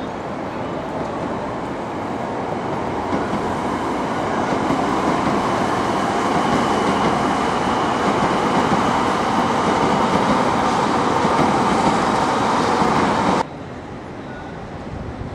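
500 series Shinkansen train running past, a steady rushing rail noise that builds over the first few seconds, holds loud, and cuts off suddenly near the end.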